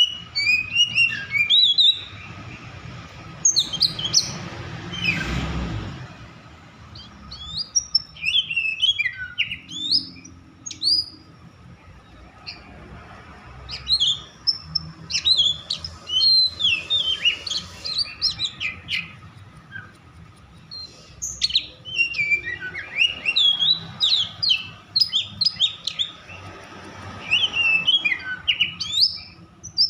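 Oriental magpie-robin (kacer) singing in loud bursts of sharp, quickly varied whistled and chattering notes, with short pauses between phrases. This is the agitated, 'over-emotional' kacer song used as a lure to set other kacer singing. A brief rushing noise passes about five seconds in.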